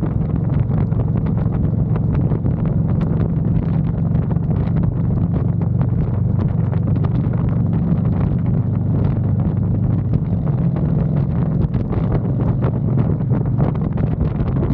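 Honda Fury's V-twin engine running at a steady cruise, with wind buffeting the microphone.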